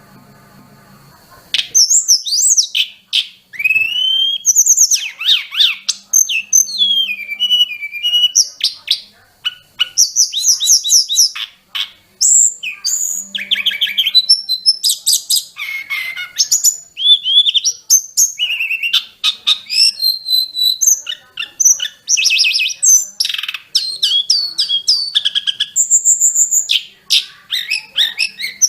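Tledekan gunung (sulingan gunung) songbird singing a full, varied song packed with mimicked phrases: fast strings of high chirps, whistled up-and-down glides and trills. The song starts about a second and a half in, after a faint hum.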